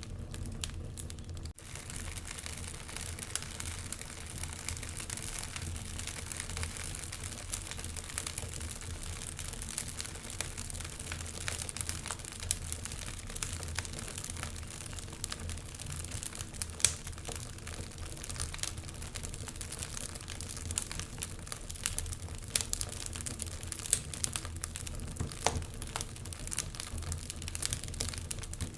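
Wood fire crackling in a fireplace: irregular sharp snaps and pops over a steady low rumble. The sound dips out briefly about a second and a half in.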